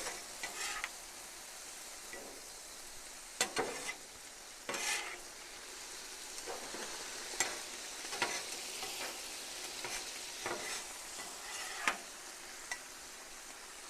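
Sauced chicken, vegetables and noodles sizzling on a hot flat-top griddle while being stirred and tossed with a spatula, with a steady hiss and a few sharp scrapes and clacks of the spatula on the steel.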